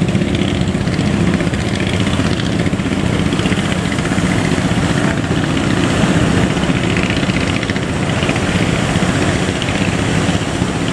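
A fishing boat's engine running steadily with a low rumble.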